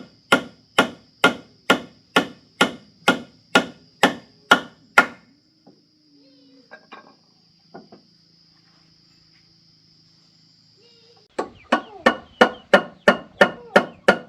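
Rhythmic hammer blows, about two a second, stopping about five seconds in. After a pause with a few faint knocks, the blows resume near the end at a faster pace, about three a second.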